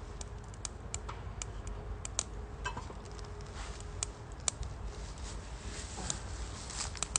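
Firewood crackling in a Uniflame Nature Stove Large wood fire: irregular sharp pops and snaps, a few louder ones, over a low steady rumble.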